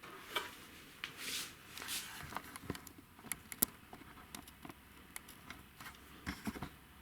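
Faint clicks, taps and short rustles of hands working the parts of a welding machine's wire feed mechanism. A brief rustle comes about a second in, the sharpest click a little past the middle, and a quick cluster of clicks near the end.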